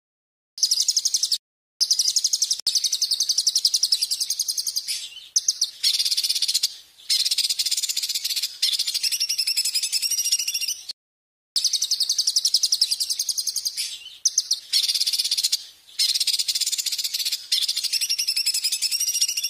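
Songbird song recording for tutoring cage birds: loud, rapid, high-pitched trills and chatter in phrases a few seconds long, broken by brief dead-silent gaps. The sequence starts over about halfway through, as a looped track.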